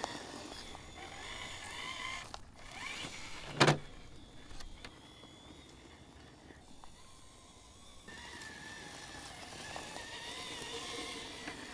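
Electric motor and gear drivetrain of a 1/10-scale Element RC Enduro KnightRunner trail truck whining, rising and falling in pitch with the throttle as it crawls over rocks. A single sharp knock about three and a half seconds in.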